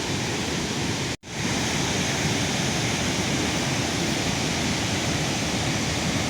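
Steady rushing noise, cutting out for an instant about a second in.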